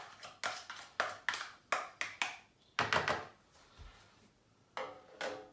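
Spoon tapping repeatedly against the rim of a bowl, about four quick taps a second, knocking ginger-garlic paste off into the yoghurt marinade, then a heavier knock about three seconds in. A brief pitched sound follows near the end.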